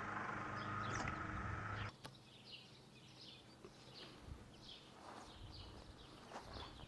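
A steady low hum that cuts off abruptly about two seconds in, giving way to quiet outdoor background with small birds chirping over and over in short high notes, and a few faint clicks.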